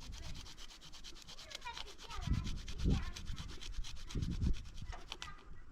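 Rapid, even scraping strokes, about ten a second, with a few dull knocks among them: hand food preparation such as grating or crushing in the kitchen.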